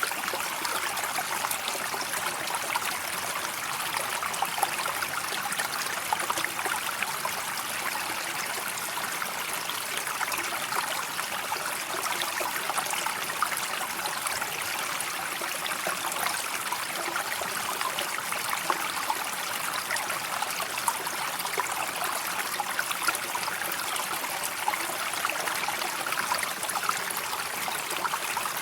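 River water flowing: a steady rush of water with many small trickles and splashes.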